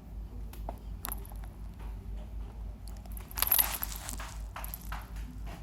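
Scattered small clicks and a brief rustle about three and a half seconds in, over a steady low hum: handling and movement noise.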